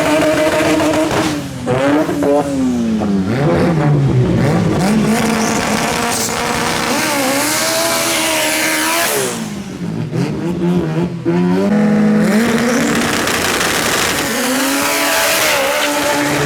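Drag racing car engines revving hard, their pitch dropping and climbing again several times.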